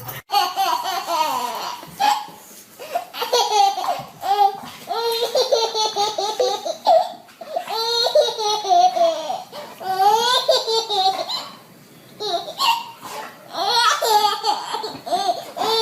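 Small child laughing hard, high-pitched, in repeated fits with short breaks between them.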